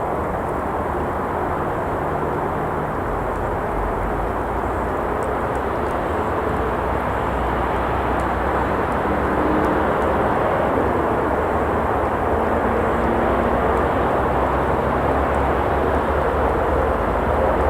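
Steady rumble of traffic on a nearby road, swelling slightly about halfway through as vehicles pass, with a few faint crackles from the campfire.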